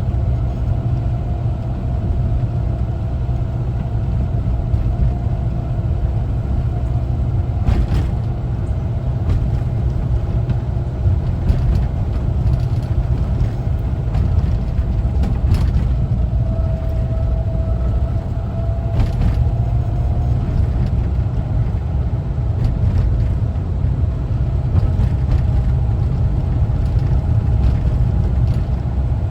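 A 1974 Volkswagen Westfalia camper bus on the move: its air-cooled flat-four engine and the road give a steady low rumble, with a faint steady whine and a few brief rattles or knocks.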